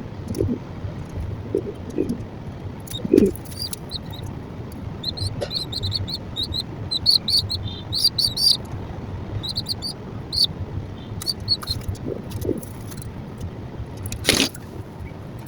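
Small bird chirping in quick runs of short, high notes over a steady low rumble, with a sharp knock near the end.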